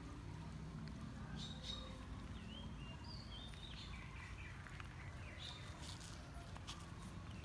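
Small birds chirping in short, rising and falling calls over a steady low outdoor rumble, with a few faint clicks.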